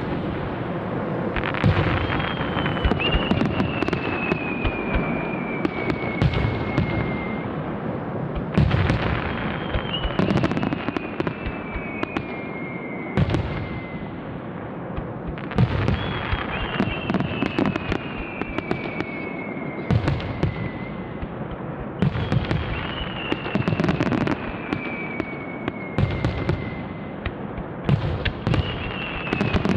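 Aerial fireworks display: dense, repeated bangs and crackling shell bursts over a continuous rumble. A thin whistle-like tone glides slowly downward over several seconds and returns about every seven seconds.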